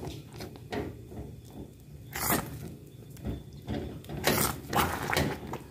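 Spoon stirring and scraping creamy melted cheese fondue in a pan, heard as a handful of separate scraping strokes with light ticks between.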